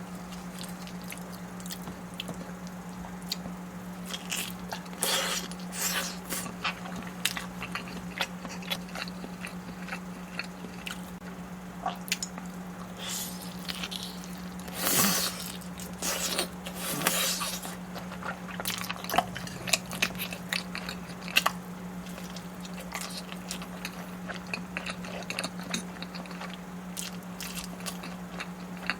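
Close-miked eating: a person biting and chewing food, with many small mouth clicks and a few louder clusters of bites near the middle. A steady low electrical hum sits underneath.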